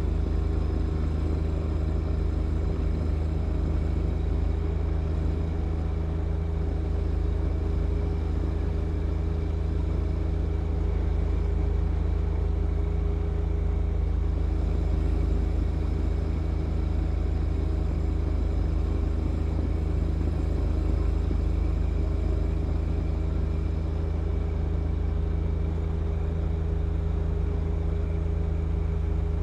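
John Deere 1025R compact tractor's three-cylinder diesel engine running steadily at a constant speed, a low drone with a rumble underneath.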